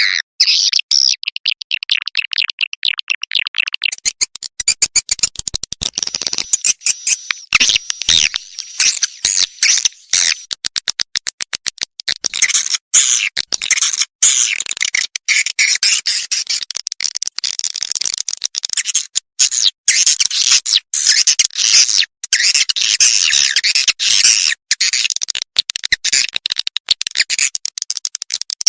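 Edible-nest swiftlet call sound: dense, rapid, high-pitched twittering and chirping, a recorded lure sound of the kind played in swiftlet houses to draw swiftlets in to roost and nest.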